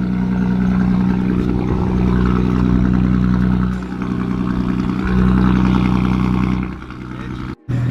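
Car engine running steadily under way, its note dipping briefly about four seconds in and rising again about a second later, as at a gear change; it cuts off abruptly near the end.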